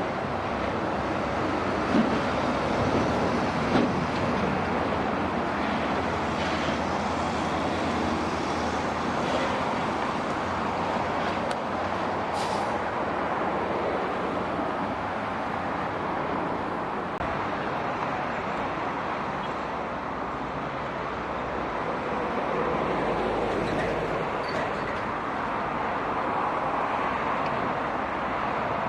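Road traffic with heavy diesel trucks driving past: a steady mix of engine and tyre noise, with two short knocks about two and four seconds in.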